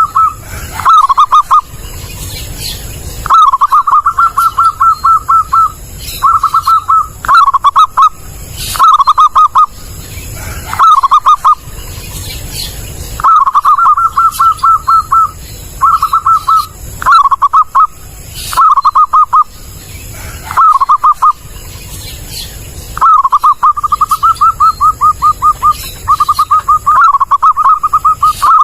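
Zebra dove (perkutut) calling: short phrases of fast, rapidly repeated cooing notes, one after another with brief pauses between them. The recording is used as a lure call for trapping doves.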